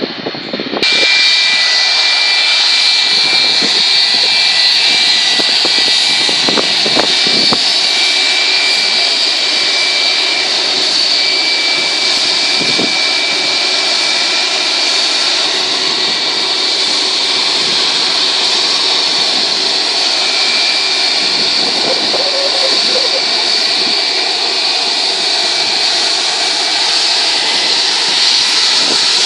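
Jet aircraft engines at takeoff power: a loud, steady rush with a high whine that sets in abruptly about a second in and holds.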